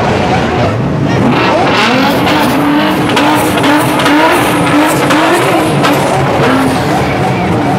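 Several supercar engines revving at once, loud, their pitches rising and falling over one another.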